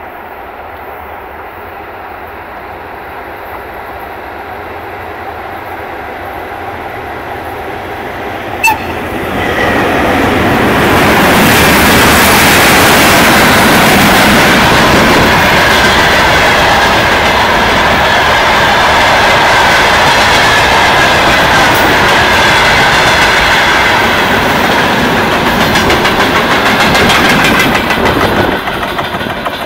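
Freight train of tank cars on an electrified main line, approaching and then rolling past close by: a steadily growing rumble, one brief sharp sound about nine seconds in, then loud wheel and wagon noise with clattering over the rail joints. Near the end the noise drops to a rhythmic clickety-clack as the last wagons go by.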